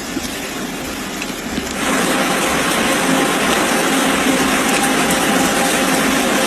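Steady loud rush of water, jumping louder about two seconds in, with a faint hum underneath.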